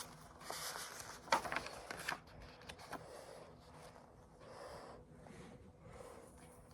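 Quiet rustling and handling of a picture book's paper pages, with a light tap about one and a half seconds in.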